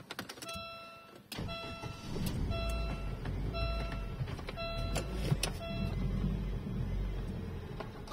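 Nexia 2's 1.6-litre four-cylinder petrol engine being started: the starter cranks, the engine catches about two seconds in and settles into a steady idle. Over it a dashboard warning chime beeps about twice a second for the first six seconds.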